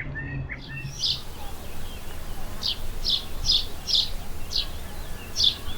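Small birds chirping: a few quick down-slurred calls in the first second, then a run of short, sharp high chirps about two a second.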